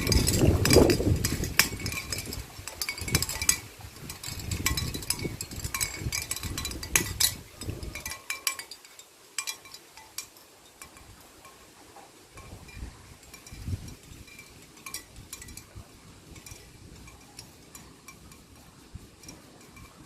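Seashell wind chime clinking as the shells knock together in the wind, busy at first and then sparser. Wind gusts buffet the microphone for the first eight seconds or so.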